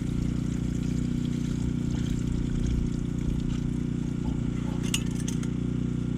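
Water pouring and trickling into a cooking pot, over a steady low hum.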